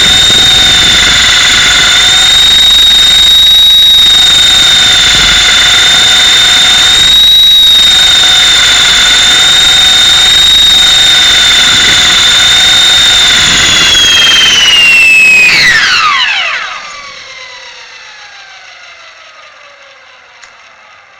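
Mini Titan E325 electric RC helicopter's motor and gear drive whining loudly and steadily at flying speed, heard from on board. About fourteen seconds in the whine drops sharply in pitch and the drivetrain and rotor wind down, fading to a faint falling hum.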